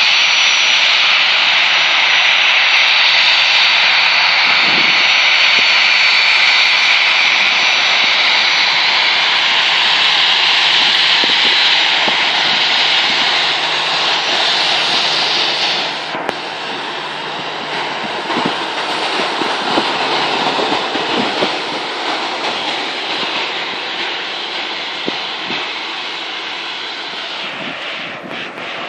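Airplane taking off, its engines running loud with a steady high whine over a broad rush; the level drops about halfway through and then fades slowly.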